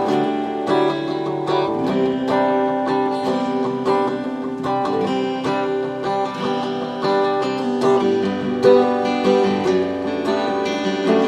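Acoustic guitar playing a strummed country-style introduction, with chords struck in a steady rhythm.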